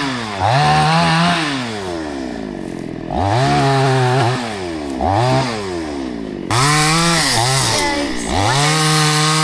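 Two-stroke chainsaw cutting logs into firewood, its engine revving up and dropping back about five times as it bites into the wood.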